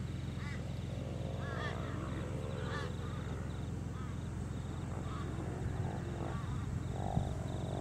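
Birds calling outdoors: short arched calls repeating every second or so, with a faint run of quick high ticks, over a steady low rumble.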